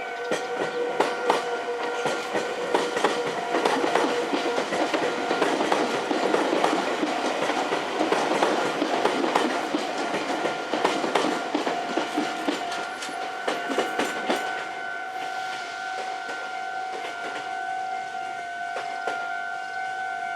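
Electric commuter train running on the rails, wheels clicking over rail joints, louder through the middle and fading toward the end, with a steady ringing tone throughout.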